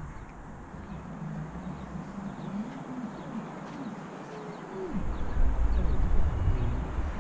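A pigeon cooing in repeated wavering phrases, with faint chirps of small birds above it. A low rumble joins about five seconds in.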